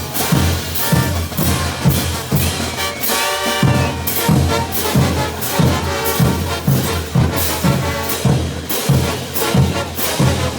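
A Bolivian brass band playing: trumpets and other brass carry the tune over a steady drum beat of bass drum, snare and cymbals at about two beats a second.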